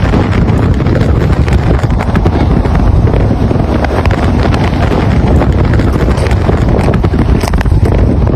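Storm-force wind gusts buffeting the microphone: a loud, steady low rumble of wind noise with scattered crackles and rattles throughout.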